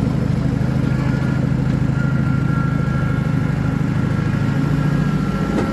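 A vehicle engine running steadily with an even low pulse.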